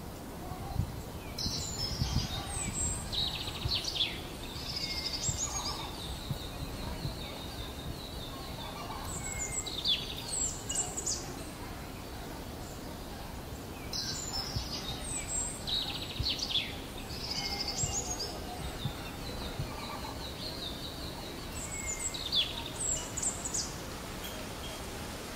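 Birds calling: groups of high chirps and short trills that come back every several seconds, over a steady low background hiss.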